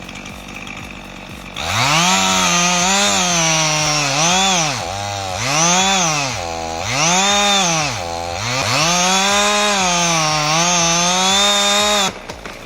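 Two-stroke chainsaw engine revved at full throttle, its pitch dropping and climbing back four times as the throttle is eased and opened again, then held high before it stops suddenly near the end.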